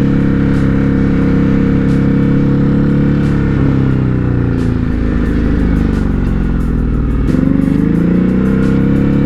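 Ducati Hypermotard 950's L-twin engine running at a steady pace, then falling in pitch as the bike slows a little before halfway. It stays low for a couple of seconds, then revs up again suddenly about seven seconds in as the bike pulls away.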